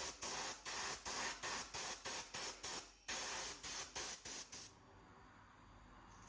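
Spray being fired in short rapid spurts, about three a second, each a sharp hiss, with a brief pause near the middle; the spurts stop about three-quarters of the way through.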